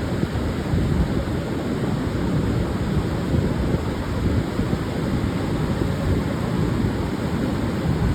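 Pacific surf washing onto a sandy beach, with wind buffeting the microphone in a steady low rumble.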